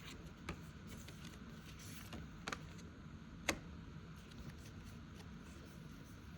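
Faint rustling of paper cash envelopes being handled and sorted, with a few light clicks or taps, the sharpest about three and a half seconds in.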